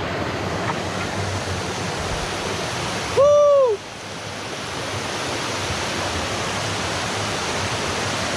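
Steady rushing of a waterfall stream's water. About three seconds in, a short, high-pitched call cuts in over it for about half a second.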